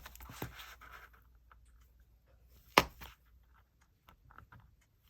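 Holes being punched through cardstock with a hand tool. There is one sharp knock a little under three seconds in, with faint rustling of the card and light clicks around it.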